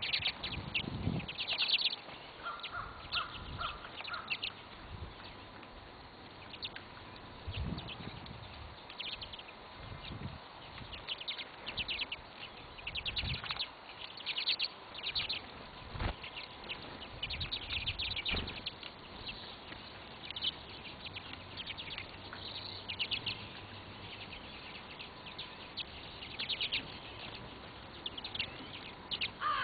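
Small birds chirping, with many short, quick runs of high chirps all through and a few dull knocks among them.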